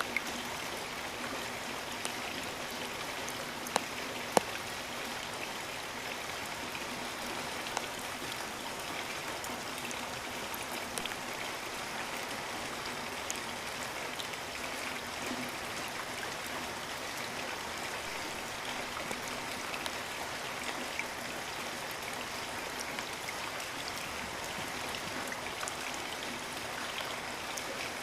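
Steady rainfall, an even hiss of rain with scattered louder drops striking close by, the loudest a pair of sharp hits about four seconds in.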